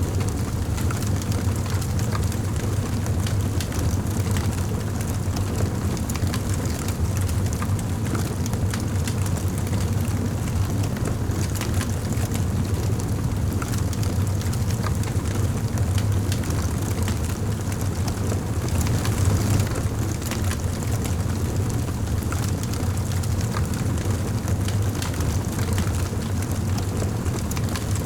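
Fire burning in a fireplace, with frequent small sharp crackles over a steady low rumble.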